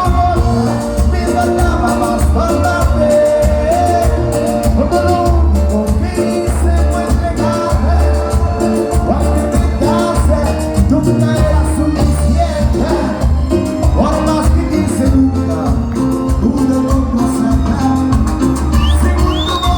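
A cuarteto band playing live: a steady, pulsing bass beat under a sung melody.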